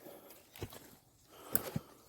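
Footsteps through overgrown grass and brush on a slope, a few scattered rustles and snaps.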